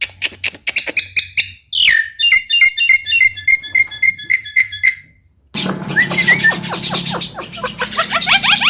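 Javan myna singing: whistles and clicks, then a quick run of repeated notes. After a short break just past the middle, a fast chatter of rising notes follows, about five a second.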